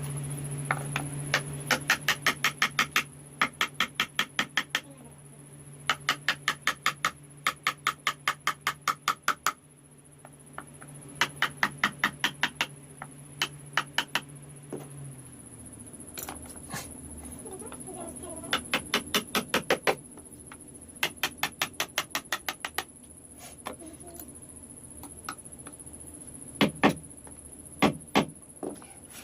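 Rapid tapping of a small hammer on a wood-carving chisel, about ten taps a second, in bursts of one to three seconds with short pauses between.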